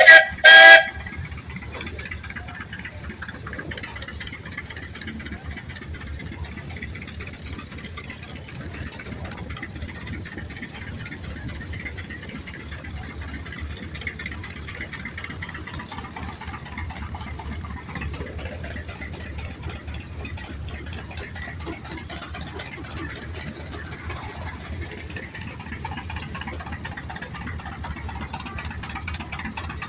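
Tractor engine running at a steady, even speed with a low rumble. Right at the start there are two very loud, short pitched blasts.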